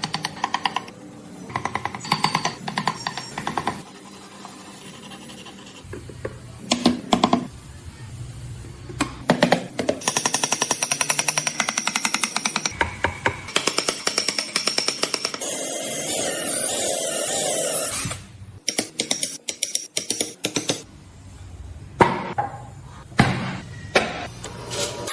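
Power tools working in short bursts: rapid, evenly repeated clattering, and about two thirds of the way in a couple of seconds of steady hissing noise.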